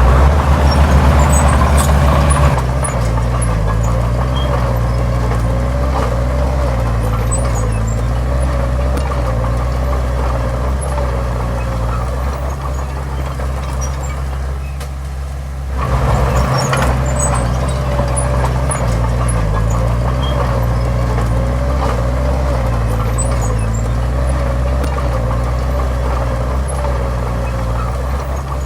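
Heavy diesel engine of earthmoving machinery running steadily under load. It works harder for the first couple of seconds, eases off about halfway through, then picks up again.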